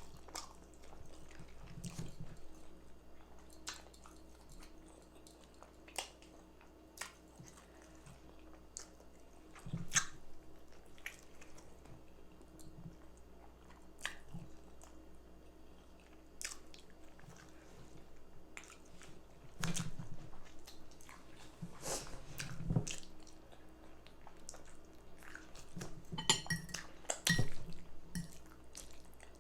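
Close-miked chewing and biting of baked chicken with rice and gravy: wet mouth sounds and sharp clicks scattered throughout, with louder stretches of eating around the middle and near the end.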